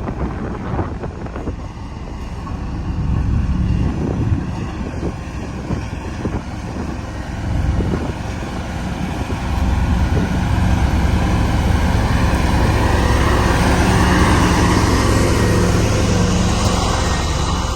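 Diesel engine of a road roller running steadily. It grows louder about ten seconds in.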